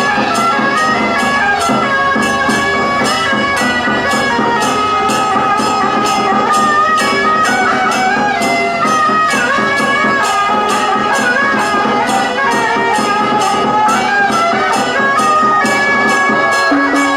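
Loud procession band music: wind instruments playing a melody over percussion struck steadily about twice a second.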